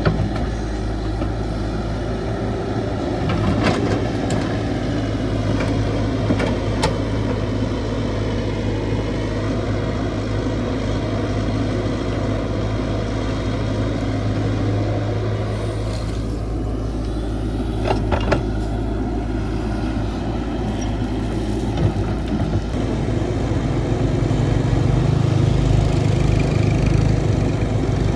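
Caterpillar 312 excavator's diesel engine running steadily at work, with a few sharp knocks. Near the end the engine note rises and gets louder.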